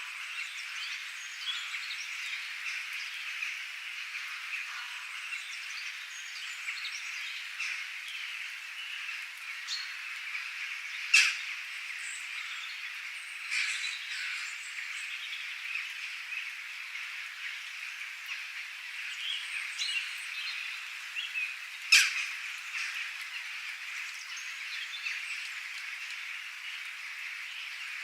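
Birds chirping against a steady high-pitched chorus of calls, with scattered small chirps and two short, loud sharp calls, about eleven and twenty-two seconds in.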